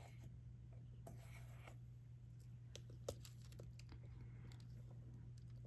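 Faint, scattered small clicks and taps from a diamond-painting drill pen pressing resin drills onto the canvas, with one sharper click about three seconds in, over a low steady hum.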